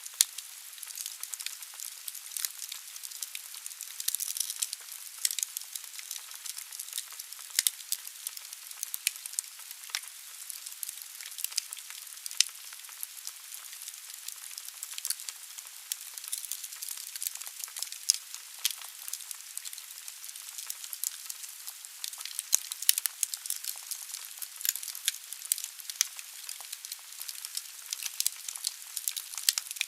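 Wood fire burning in a fireplace: a steady hiss with dense, irregular crackling of the logs and occasional louder pops.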